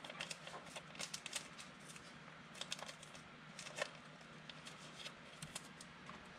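Trading cards being handled and flipped through by hand: faint, scattered light clicks and short slides of card stock against card, several a second at irregular intervals.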